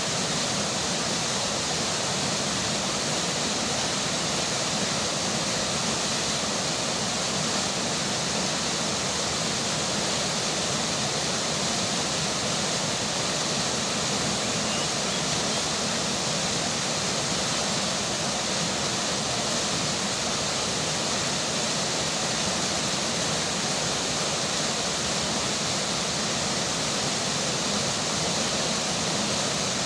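River water flowing, with rain falling, making one steady, unbroken rush of water that does not change.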